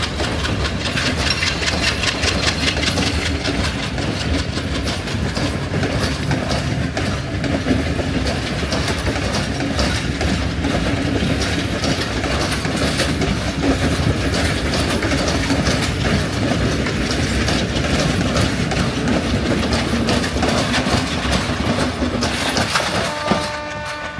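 Diesel-hauled passenger train's coaches rolling past close by, the wheels clattering steadily over the rails. Near the end the noise falls away as the last coach goes by, and a brief pitched tone sounds.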